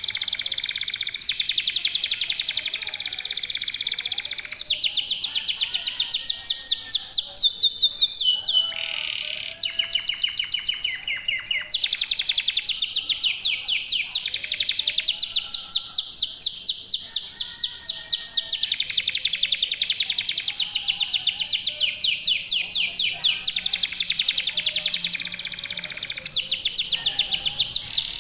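Domestic canaries singing continuously, several birds at once, in fast rolling trills and chattering phrases that change every few seconds.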